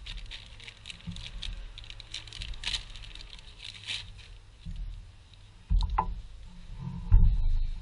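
Hand work on a car's engine accessory belt parts: scattered light clicks and rustles, then two dull thumps in the last few seconds.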